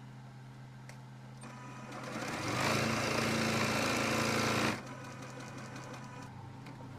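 Electric sewing machine stitching: the motor speeds up over about a second, runs steadily for about two seconds, then stops abruptly.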